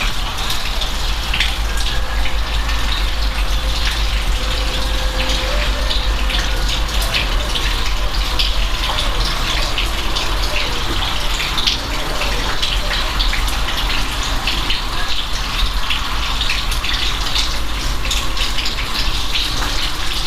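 Steady rain: an even hiss of falling water with many small drop impacts ticking through it, over a low rumble.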